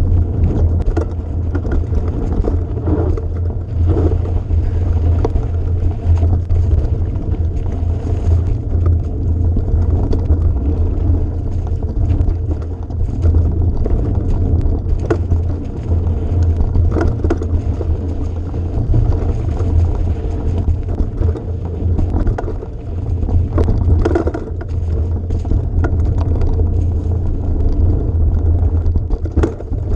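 Vehicle running steadily with a constant low rumble, overlaid by frequent short knocks and rattles.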